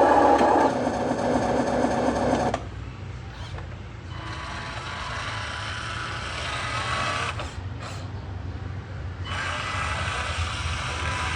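Small electric drive motor and gearbox of a Huina 1501 Scania 770 S radio-controlled truck whirring, loud for the first couple of seconds, then dropping off abruptly and running quieter before picking up again near the end.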